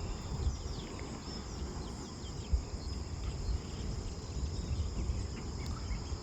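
Steady high-pitched chorus of forest insects, with a few short chirps of birds over it and a low rumble of handling on the microphone.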